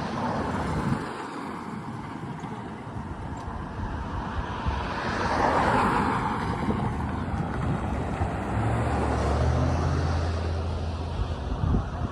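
Rumble of a CSX freight train going by, swelling in the middle, with a low steady diesel drone coming in about two-thirds through.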